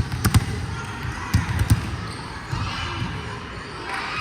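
Volleyball impacts in a gym: sharp smacks of the ball being hit or striking the floor, three in quick succession at the start and two more about a second and a half in, over a murmur of crowd voices.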